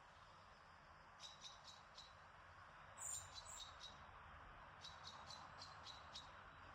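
Faint birdsong: runs of short, quick, high chirps, with a louder, higher call about three seconds in, over a steady soft hiss of breeze.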